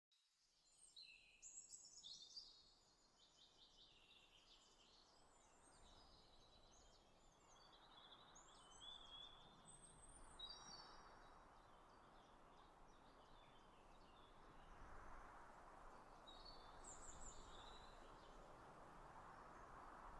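Faint birdsong: bursts of quick chirps and trills, busiest in the first half and again near the end, over a soft, steady rushing noise that grows stronger after about eight seconds.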